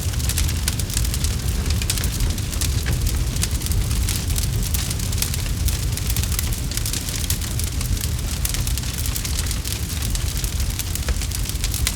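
Campfire burning and crackling steadily, with many fine snaps and pops over a low rumble of the flames.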